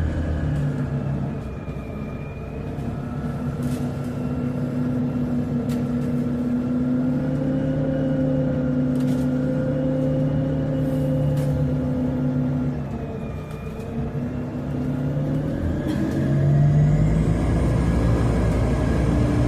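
Scania CN270UB CNG city bus under way, its gas engine running with a steady drone. The pitch dips and recovers twice, then the engine climbs louder near the end as the bus accelerates; a few light clicks and rattles sound along the way.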